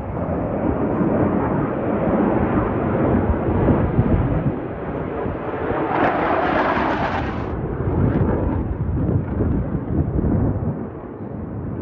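Jet noise from Blue Angels F/A-18 Super Hornets flying past: a loud, continuous rumble, with a sharper hiss rising over it for about a second and a half around six seconds in.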